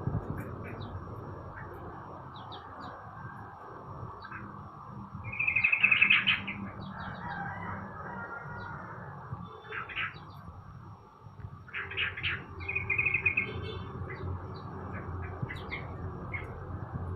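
Caged songbirds chirping, with scattered short calls and two louder trilled phrases, one about six seconds in and one near thirteen seconds, over a steady low background hum.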